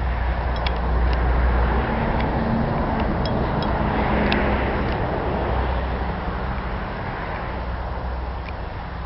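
Piston-engined propeller aircraft droning as it flies past, loudest about four seconds in and then slowly fading.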